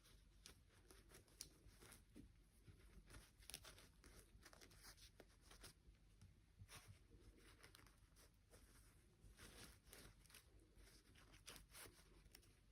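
Very faint handling noise in a small room: scattered rustles and small clicks, with no steady rhythm.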